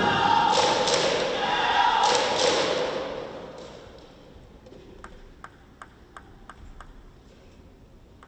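Arena crowd noise that dies away over the first three seconds, then a celluloid-type table tennis ball clicking in a quick, even run of about seven light taps.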